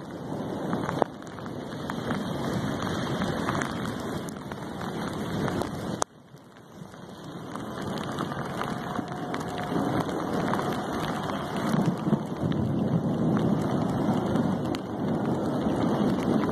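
Rain and wind in a thunderstorm: a steady rushing noise. It drops out abruptly about six seconds in and swells back over the next few seconds.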